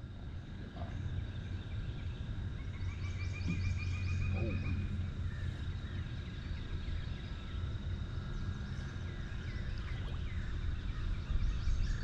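Outdoor river ambience: wild birds calling, with a trill of quick repeated notes a few seconds in and bursts of high chirps again near the end, over a steady low rumble and a thin, steady high tone.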